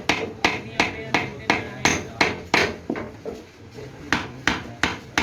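Repeated hammer blows struck in a steady rhythm, about three a second, softening briefly a little past the middle before picking up again.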